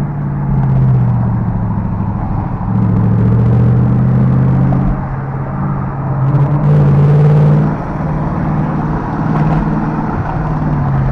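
Car engine and exhaust droning while driving. The pitch and loudness rise and fall with the throttle, loudest a little past halfway, then easing off.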